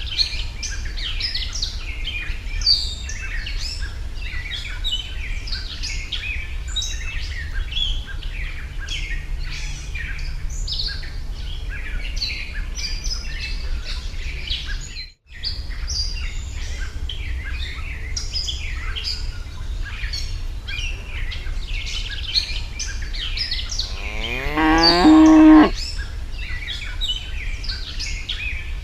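A cow moos once, a long call lasting nearly two seconds about three-quarters of the way through, over steady chirping of many small birds and a low rumble. The sound cuts out briefly just after the middle.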